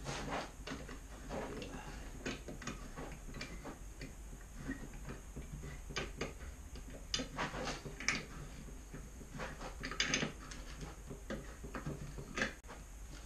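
Irregular light clicks, clinks and knocks of metal parts and hand tools being handled while a strap is fitted round a motorcycle exhaust can.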